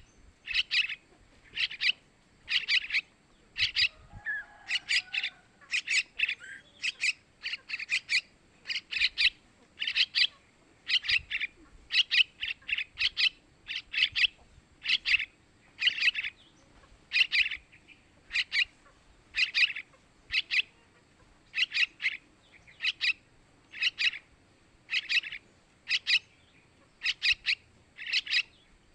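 Yellow-vented bulbul (trucukan) chicks calling: short, sharp chirps repeated about once or twice a second, often in quick pairs, with no let-up.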